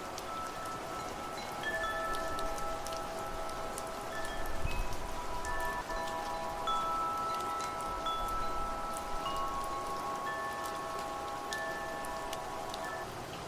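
Wind chimes ringing, several clear metal notes struck one after another and left to sustain over one another, over steady rain with patters of drops. A brief low rumble comes about a third of the way in, and the chimes fade near the end.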